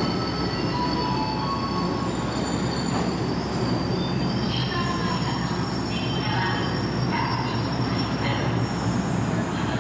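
Electric train, the 113-series Kure Line train, moving at the platform with its wheels squealing: several thin high squeals come and go over a steady low rumble.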